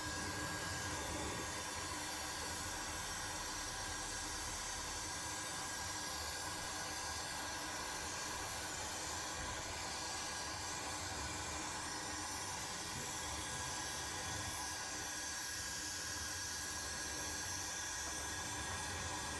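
Steady, even hissing with a faint steady whine over it, unchanging throughout.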